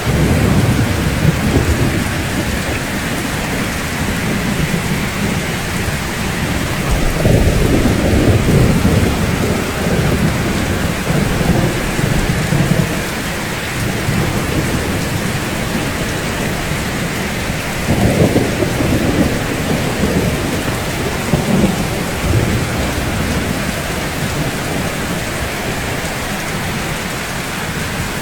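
Steady rain falling on rooftops, an even hiss, with low rolls of thunder rumbling at the start, again about seven seconds in, and once more about eighteen seconds in.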